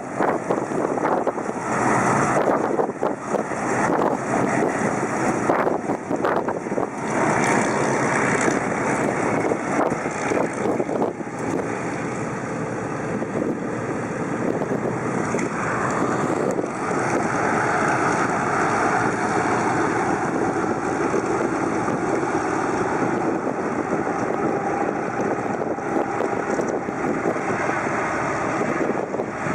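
Vintage piston-engined warbird's propeller engine running steadily, with wind buffeting the microphone.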